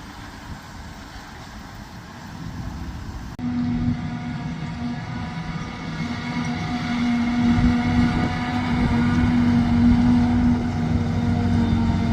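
Diesel engine of silage-harvesting farm machinery running. It is a low rumble at first, then louder from about three seconds in with a steady droning hum that keeps building toward the end.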